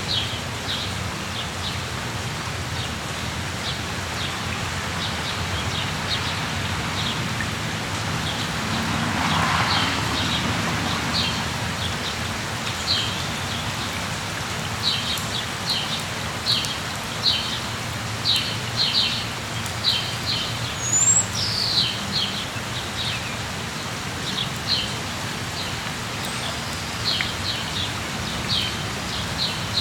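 Steady rain with birds chirping over it: many short, high chirps that come thick and fast in the middle stretch, over an even hiss of rain.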